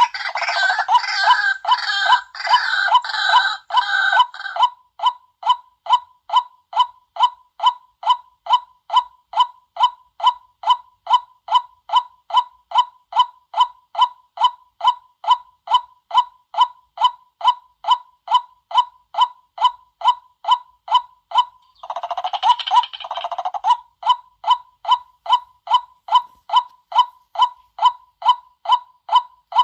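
White-breasted waterhen calls used as a lure call: one note repeated evenly about two and a half times a second, joined near the start and again about 22 seconds in by a harsher, cackling burst of calls.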